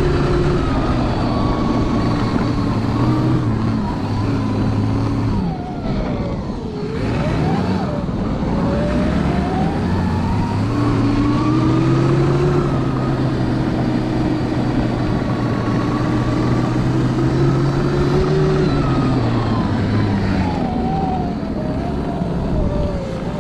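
Electric snowbike, a 72-volt electric dirt bike fitted with a snow track kit, riding through deep snow: the motor's whine rises and falls with speed, sinking low about six seconds in as the bike slows, then climbing again. Steady low drive tones and a continuous rushing noise run underneath.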